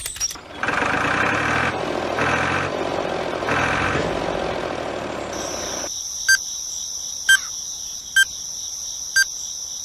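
Small motor running with three louder surges, then stopping about six seconds in. A steady high tone follows, with a short tick about once a second.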